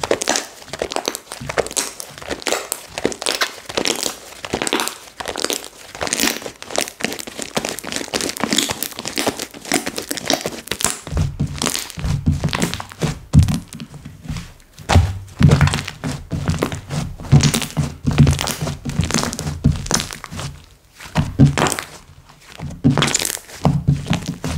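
Slime being played with by hand: dense, irregular sticky clicks and pops as it is pressed, stretched and folded. From about halfway, deeper squishing presses join in.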